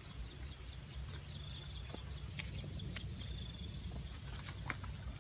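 A chorus of field crickets and other insects: a steady high-pitched trill over a rapid, pulsing chirping. A couple of sharp clicks and a low rumble of handling or movement are heard under it.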